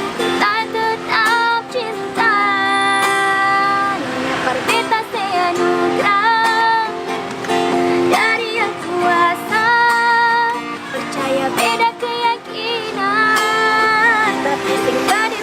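A woman singing a slow melody with vibrato on the held notes, accompanied by a strummed acoustic stringed instrument.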